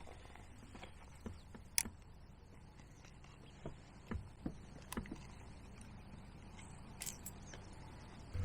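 Faint, scattered clicks and knocks a second or so apart over a low background: small handling noises on a kayak.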